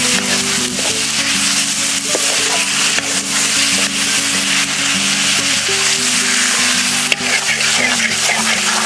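Onions and tomatoes sizzling in hot oil in a black iron kadai as they are sautéed down for a gravy base, with a metal ladle stirring and scraping the pan. Background music plays underneath.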